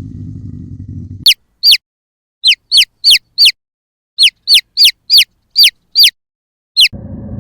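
An animal's high, short squeaks, about thirteen of them in quick irregular succession, each sliding down in pitch. Before them and again near the end there is a low, steady rumbling noise.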